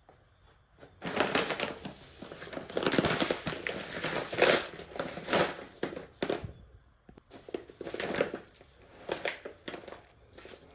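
Crinkling and rustling of something being handled, like packaging or a bag, in a long busy stretch and then a second, sparser one.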